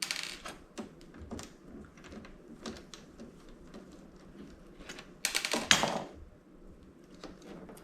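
Scattered clicks and taps of hand tools and loose parts being worked on a dismantled flat-screen TV's chassis, with a louder run of rapid clicking about five seconds in.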